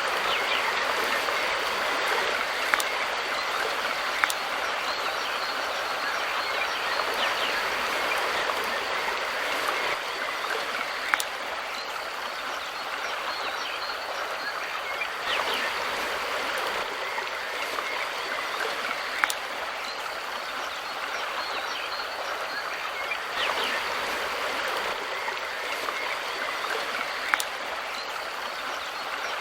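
Mountain river flowing steadily with an even rushing of water, and a few brief sharp ticks scattered through it.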